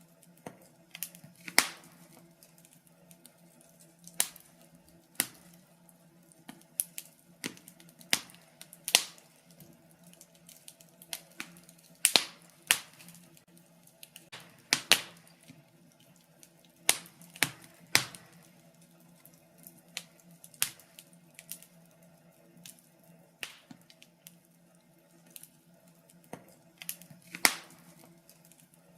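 Fire in a fireplace crackling: irregular sharp pops and snaps, a few each second, some much louder than the rest.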